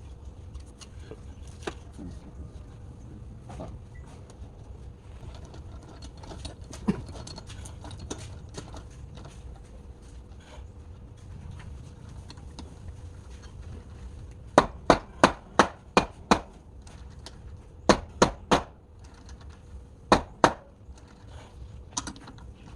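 Sharp knocks in three quick runs, about six, then three, then two, after several seconds of scattered light clicks and taps.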